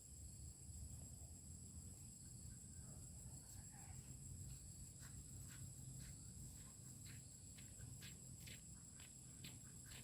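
Near silence: a faint steady high-pitched trill like crickets or other insects over a low rumble. From about halfway come soft taps, roughly two a second.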